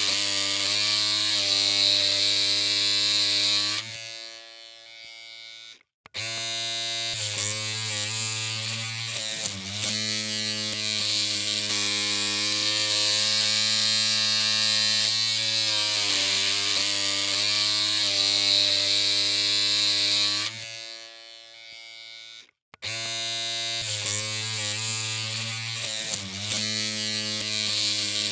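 Electric hair clippers humming with a steady, even buzz, its pitch wavering slightly now and then. The hum fades and cuts out for about two seconds twice, about 4 s in and again about 20 s in, then starts again.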